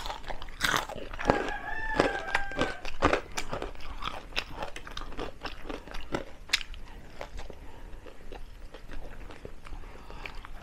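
Close-up crunching and chewing of crispy deep-fried chicken feet, bones included: irregular crisp cracks and clicks with wet chewing between them. A little over a second in, a faint wavering call lasting about a second and a half sounds in the background.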